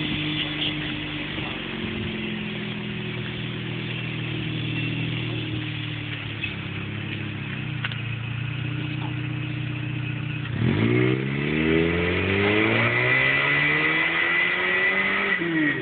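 2006 Scion xB's 1.5-litre four-cylinder through an aftermarket Apexi exhaust, idling steadily, then revved up sharply about ten and a half seconds in and held at higher revs before dropping back near the end.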